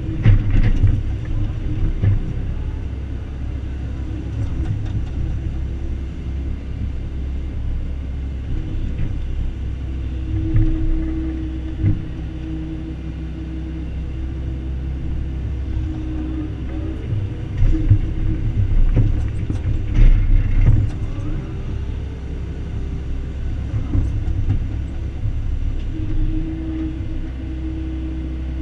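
Excavator's diesel engine running steadily while digging, with a hum that swells and fades as it works and occasional knocks and clanks.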